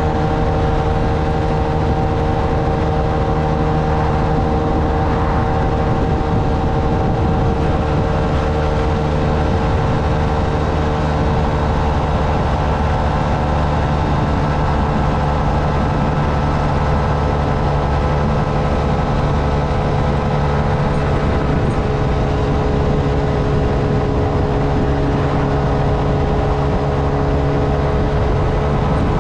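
Honda Navi's small single-cylinder engine running at a steady cruising speed, with no revving up or down, over a constant rush of wind and road noise.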